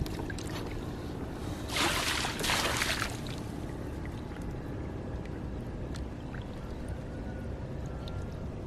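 Water splashing and pouring for about a second and a half, over a steady low rumble.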